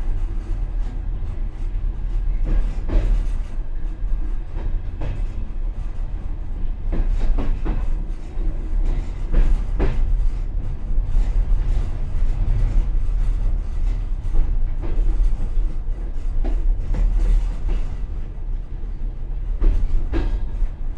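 Passenger train car rolling along the track, heard inside its rear vestibule: a steady low rumble with irregular knocks and clacks of the wheels over rail joints.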